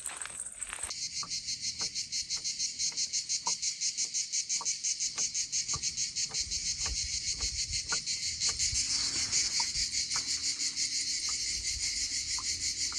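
Insects chirping in a high, fast, even pulsing chorus, like crickets.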